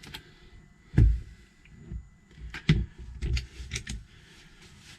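A few short, soft knocks and clicks. The loudest is a low thump about a second in, and a cluster of lighter taps follows between about two and a half and four seconds in, over a faint steady hum.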